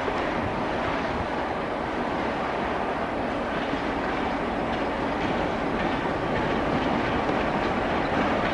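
Train passing close by, its railroad cars rolling past with a steady rumble of wheels on rail and a faint clickety-clack.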